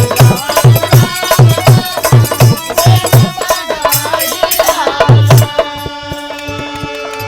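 Instrumental interlude of a Bhojpuri birha folk song: a hand drum beats a steady rhythm of about two strokes a second under a melody. About five and a half seconds in, the drum drops out and only held chord tones remain.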